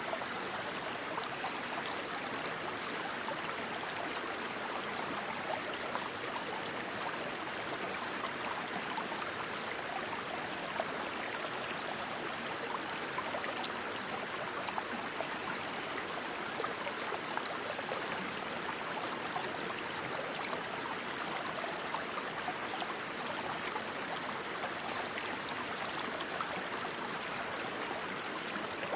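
Steady rushing water of a fast-flowing stream. Short high chirps come every second or so over the water, with a brief trill about four seconds in and another near the end.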